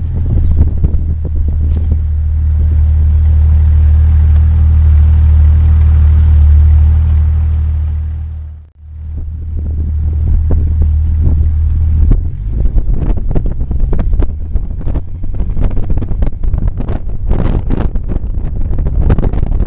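Jeep Cherokee XJ on the move, a steady low engine and road drone that drops away briefly about halfway. In the second half, gusty wind buffets the microphone.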